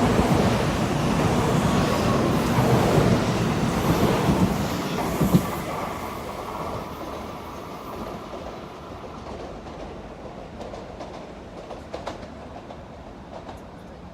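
A train running on the tracks, loud for about five seconds and then fading steadily away.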